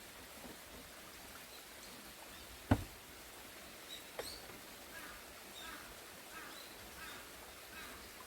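Quiet outdoor ambience with one sharp knock or pop about two and a half seconds in and a smaller click a little later. In the second half, a run of faint short chirps repeats about every 0.7 s.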